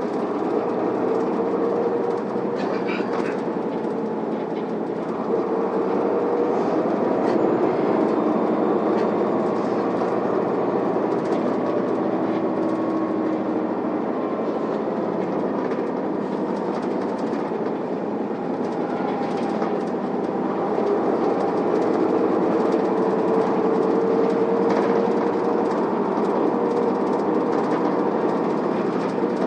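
Isuzu Erga city bus running, heard from inside the cabin: steady diesel engine and road noise with a drone that slowly rises and falls as the bus drives toward its stop.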